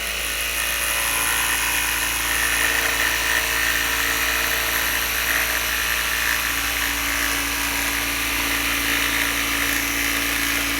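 Electric jigsaw running steadily through a cut, its motor and blade holding an even speed.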